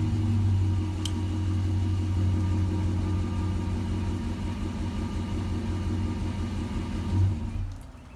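Ram Black Widow pickup's exhaust, with its resonators removed and an upgraded Y-pipe, giving a steady low engine rumble. The rumble swells briefly about seven seconds in, then stops near the end.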